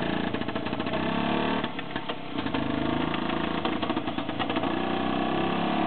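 IZh Planeta-2 motorcycle's single-cylinder two-stroke engine running under way as it is ridden off, its pitch rising and falling several times as the rider accelerates and changes gear.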